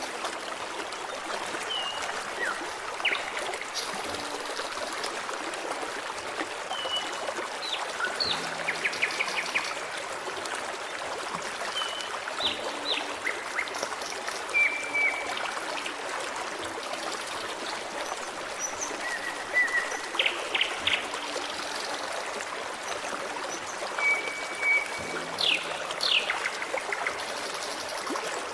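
Forest stream running steadily, with birds calling over it: short chirps, whistled notes and quick trills throughout.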